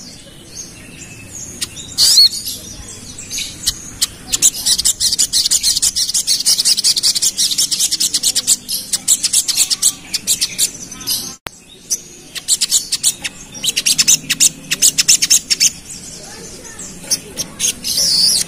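Sogon (sogok ontong, little spiderhunter) singing in rapid 'ngerap' style: two long runs of very fast, sharp, high-pitched notes, with a few separate whistled, gliding calls before and after them.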